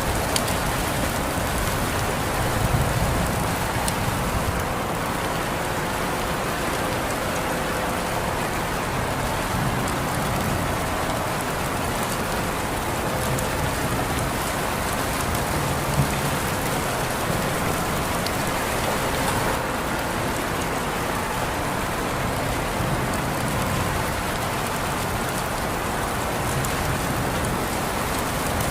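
Steady rainfall pattering on surfaces, an even hiss with scattered individual drops and slight swells in the low rumble.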